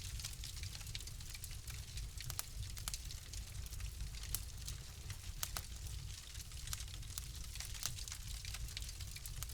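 Wood fire crackling in a fireplace: frequent irregular sharp pops and snaps over a soft hiss and a low steady rumble.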